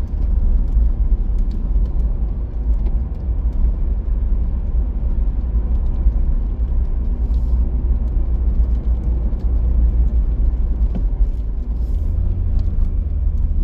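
Steady low road and engine rumble of a car being driven, heard from inside the cabin, growing a little heavier in the low end near the end.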